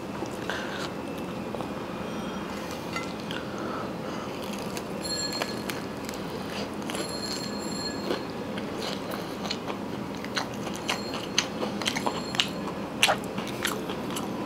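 Crunchy coating of fried chicken being bitten into and chewed, with many small crisp cracks and crackles.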